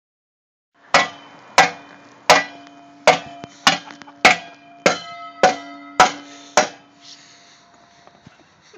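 Ten hammer blows on metal, about 0.6 s apart, each leaving a ringing metallic tone that lingers under the next blow; they stop near the end.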